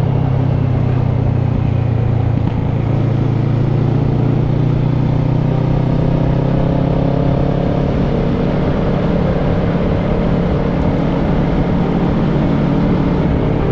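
Kawasaki ER-6n's 649 cc parallel-twin engine running under way at a steady cruise, with a rush of wind and road noise over it; the engine note climbs gently in the second half.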